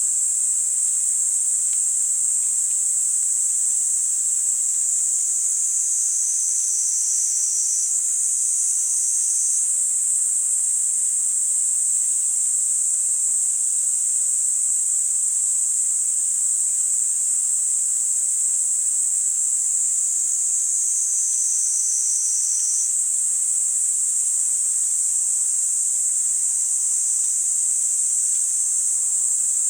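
Kaempfer cicadas (niiniizemi) singing a continuous, high-pitched, steady buzz. Twice a slightly lower buzz joins in for two or three seconds.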